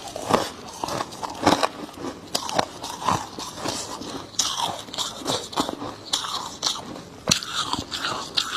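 A person biting and chewing a chunk of freezer frost: a string of irregular, crisp icy crunches.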